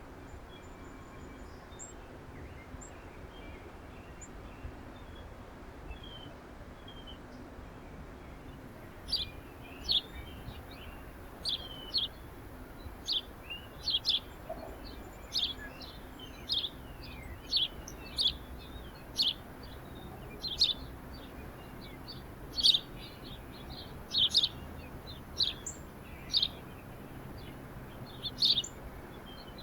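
A small songbird calling over and over with short, sharp, high chirps, about one a second, starting about a third of the way in, with fainter chirps before that.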